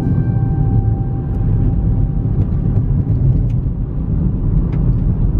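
A car driving, with a steady low rumble of engine and tyres.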